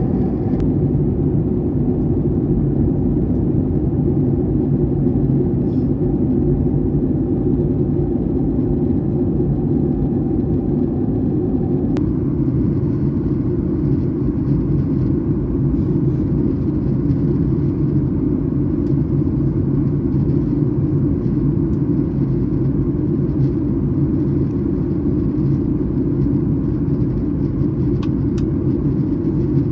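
Steady cabin rumble inside a Boeing 737-800 during descent: the noise of its CFM56 engines and the airflow over the fuselage. A fainter hum stops with a click about twelve seconds in, and there are a couple of small clicks near the end.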